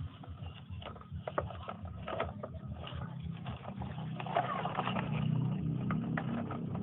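Toy truck play: a low, steady, engine-like hum that swells slightly after about four seconds, with scattered sharp clicks and knocks.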